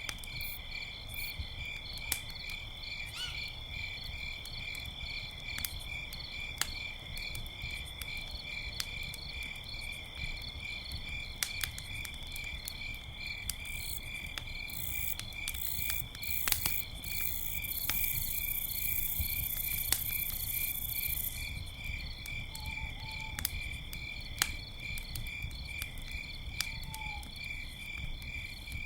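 Crickets chirping in a steady pulse, about two chirps a second, over a crackling campfire with scattered sharp pops. A hiss rises for a few seconds past the middle, and two faint short calls come near the end.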